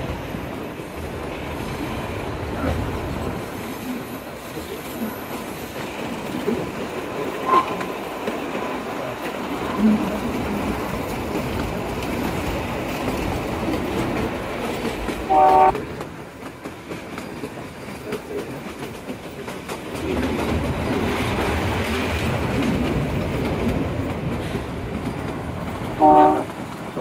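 Narrow-gauge Kalka–Shimla toy train running, its wheels clattering on the rails. The locomotive's horn sounds two short blasts, one about halfway through and one near the end.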